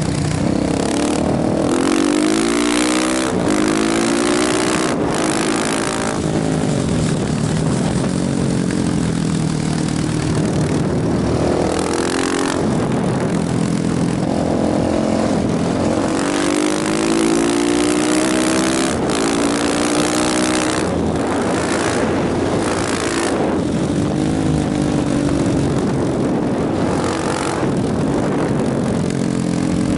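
Motorcycle engine under way, its pitch rising and then dropping back several times as it accelerates, over a steady rushing noise.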